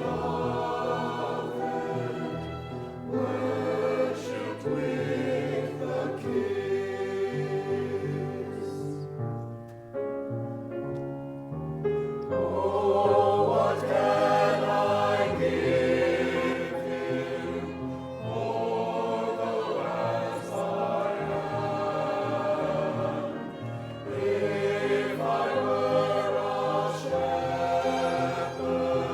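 Choir singing with held accompanying notes underneath, easing off briefly about ten seconds in before building again.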